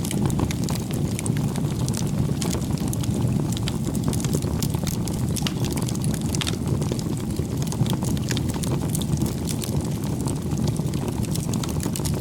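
Wood bonfire burning: many sharp crackles and pops over a steady low rumble.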